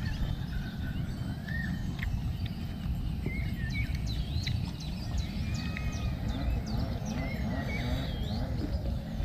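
Small birds chirping and calling many times, in short rising and falling notes, over a steady low rumble.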